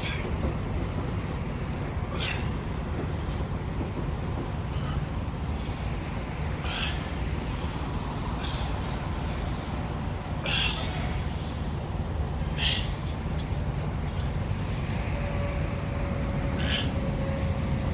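Short, hard puffs of breath about every two seconds from a man straining through squats, over a steady low engine and traffic rumble.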